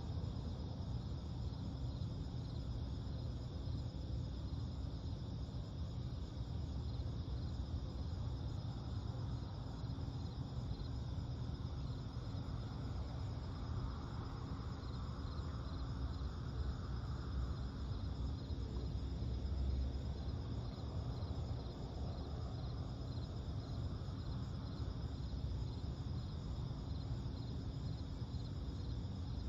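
Night-time lakeside ambience: insects chirring steadily in an even pulsing rhythm over a low, constant rumble, with a soft swell in the background partway through.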